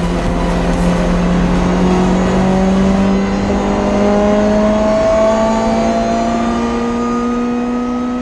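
Race car engine running at high revs, its pitch climbing slowly and steadily, as under sustained acceleration in a high gear.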